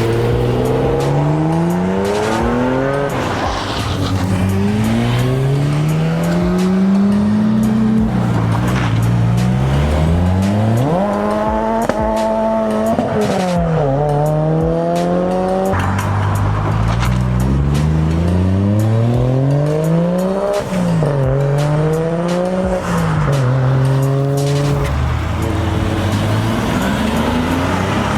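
Performance car engines accelerating hard away, each run rising in pitch and dropping back at the gear changes, one after another, with a stretch of revving up and down about halfway through.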